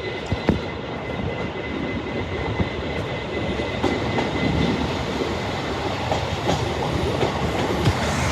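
A train running along the track, its wheels clicking over rail joints, the sound building as it comes closer.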